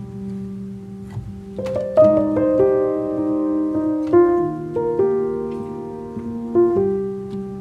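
Background piano music: slow, soft chords and sustained notes changing every second or so.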